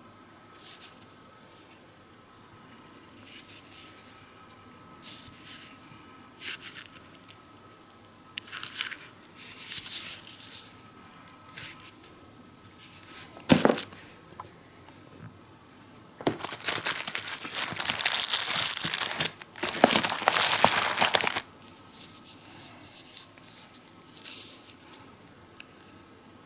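Packaging being torn and handled: on-and-off tearing and crinkling, a sharp click about halfway, then two long stretches of tearing a few seconds apart.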